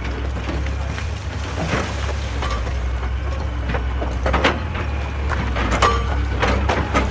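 Excavator engine running steadily under load, with scattered sharp knocks and cracks of rock against the machine's bucket and rock face.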